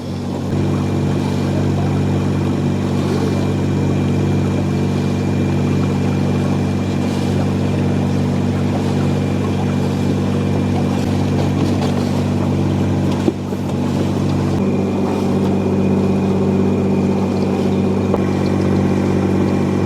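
Sailboat's inboard engine running steadily as the boat motors along a canal, an even, unchanging engine note with a faint high steady whine above it.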